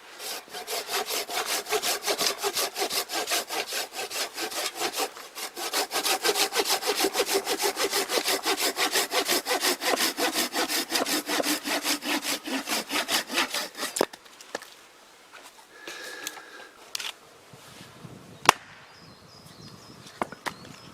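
Hand saw cutting through dead wood with quick, even back-and-forth strokes, several a second, with a short break about five seconds in. The sawing stops at about fourteen seconds, followed by a few light knocks and one sharp click.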